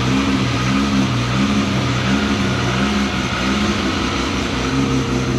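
Toyota Supra engine idling steadily through a 4-inch titanium ARTEC Performance exhaust with a branch-off resonator: a low, even exhaust drone with a higher note that pulses in and out about twice a second.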